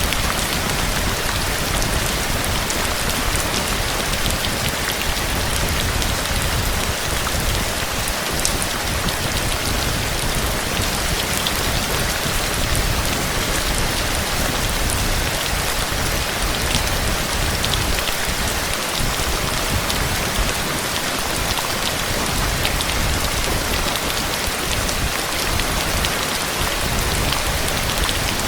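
Steady rain pouring down, an even hiss full of fine drop hits, with a low, uneven rumble underneath.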